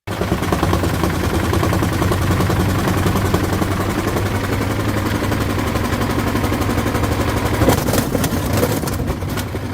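Washing machine running a fast spin: a steady motor hum under a dense, rapid rattling clatter, with a few louder knocks near the end.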